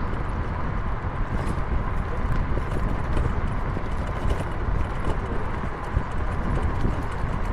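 Road and wind noise from a moving vehicle: a steady low rumble with scattered light knocks and rattles and a faint steady whine.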